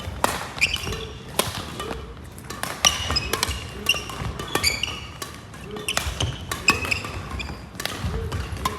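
Badminton rally: sharp racket hits on the shuttlecock at irregular intervals, with sneakers squeaking on the court floor.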